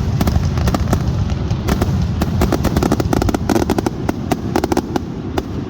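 Fireworks display going off close by: a rapid, dense crackle of sharp cracks and pops, many a second, over a constant low booming background.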